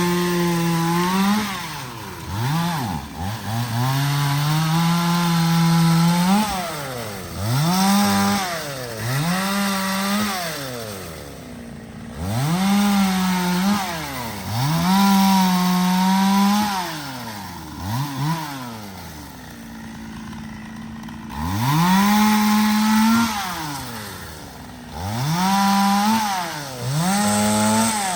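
Two-stroke chainsaw revved to full throttle and let fall back to idle again and again, each burst held for about one to two seconds, as when cutting through branches.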